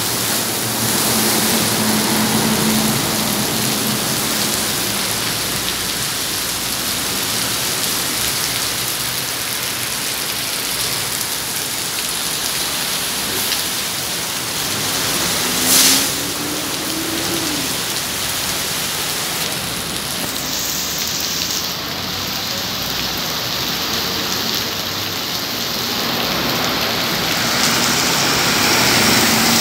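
Heavy rain pouring steadily while city buses drive through standing floodwater, their wheels throwing up spray. A single sharp knock comes about 16 s in, followed by a briefly rising engine note.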